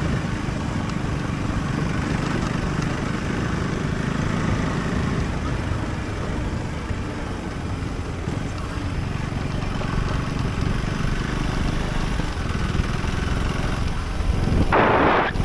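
Husqvarna Svartpilen 401's single-cylinder engine running steadily under way, with wind and road noise. Near the end there is a brief, louder rush of noise.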